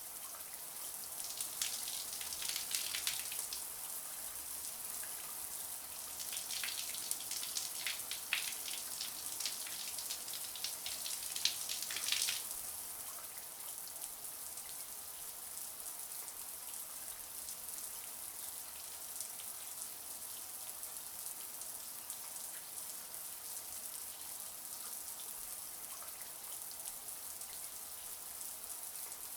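Shower water running steadily as a high hiss. Between about one and twelve seconds in come clusters of sharper splashing drops, loudest near twelve seconds; after that the spray settles back to an even hiss.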